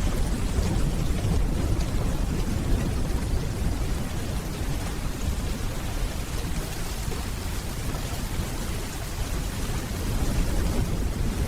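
Steady rainfall with a deep rumble of distant thunder underneath, swelling a little near the end.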